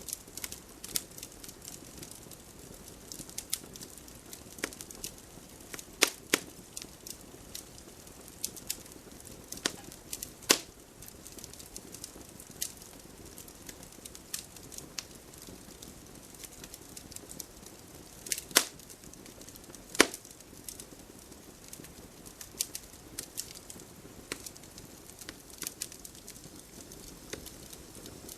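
Wood campfire crackling, with irregular small snaps and a handful of louder pops over a soft steady hiss.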